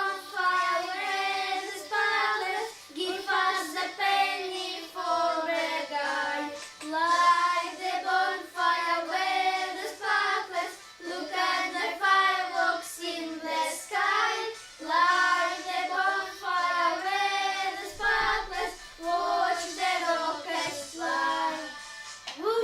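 Children singing a song, the melody carried by young high voices throughout.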